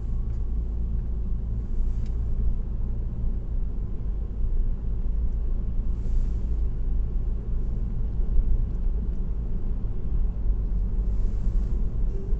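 Steady low road rumble of a car cruising on an expressway, with three brief swells of hiss about two, six and eleven seconds in.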